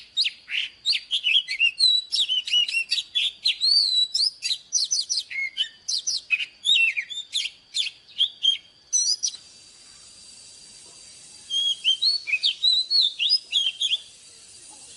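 Oriental magpie-robin singing: a fast string of varied whistles and chirps. It breaks off for about two seconds past the middle, then starts again.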